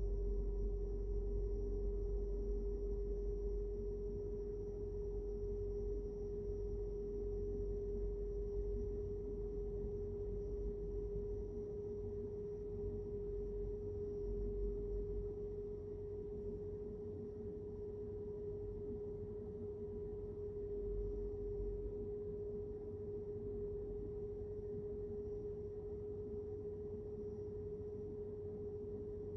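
A single steady pitched tone that never changes in pitch or strength, over a low rumble of road noise inside a moving car; the rumble eases about twelve seconds in.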